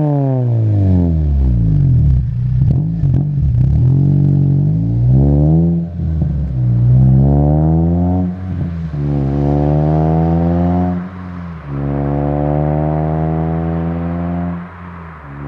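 Honda K24/K20 four-cylinder running through a Skunk2 70 mm exhaust with a gutted catalytic converter. It pulls hard through the gears: the pitch climbs, then drops back at each upshift, about four times.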